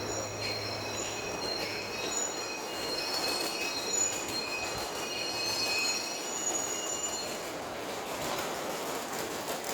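Train wheels squealing against the rails: several high, thin squeals that waver and overlap over a steady rumble of rail noise, fading out about three quarters of the way through.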